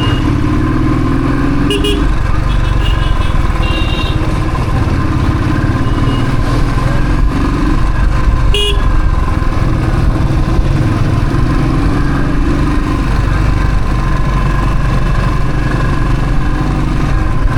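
Royal Enfield Thunderbird's single-cylinder engine running steadily on the move, with a few short horn beeps about two, four and nine seconds in.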